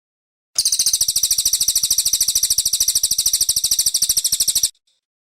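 Cililin coklat bird singing a rapid, high-pitched trill of about fifteen notes a second, starting about half a second in and cutting off abruptly after roughly four seconds.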